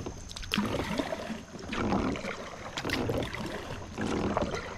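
Kayak paddle strokes: the blades dip and splash into the water about once a second, with drips between strokes.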